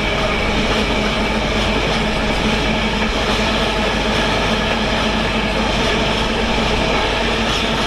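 Freightliner freight train hauled by a Class 66 diesel passing at a steady speed, its wheels running loud and unbroken over the rails.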